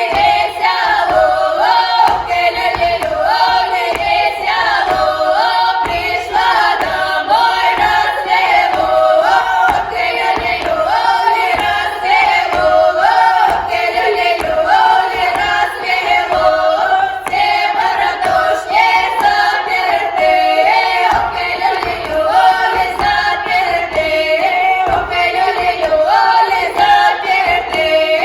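A group of women singing a song together in chorus, the melody carried high and continuous throughout.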